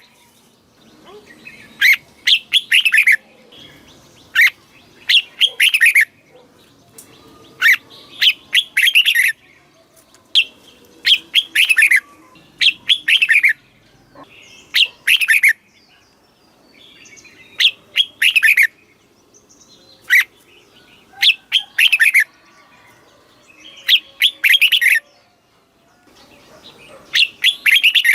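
Red-whiskered bulbul singing: short phrases of clear, falling whistled notes, repeated every second or two.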